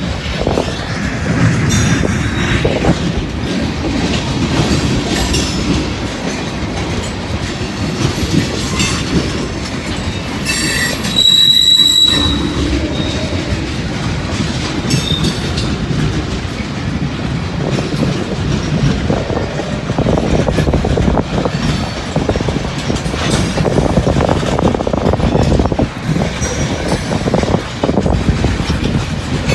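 Freight train cars rolling past: a steady rumble with the clatter of wheels over the rail joints, and a brief high-pitched wheel squeal about twelve seconds in.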